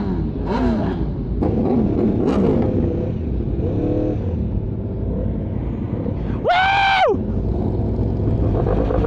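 Sport motorcycles riding in a group, a steady engine and wind rumble with the pitch of the engines rising and falling. About six and a half seconds in, a loud, steady high tone sounds for about half a second and drops off at its end.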